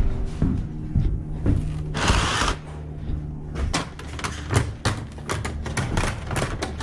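Handling noise at a model railroad layout: many light, quick clicks and small knocks of hard plastic and metal pieces being moved about, denser in the second half, with a short hiss about two seconds in, over a steady low hum.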